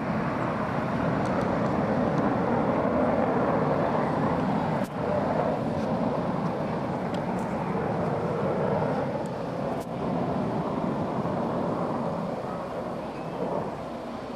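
Panavia Tornado jets' RB199 turbofan engines running with a steady whine, easing off slightly over the last few seconds. There are brief dropouts about every five seconds.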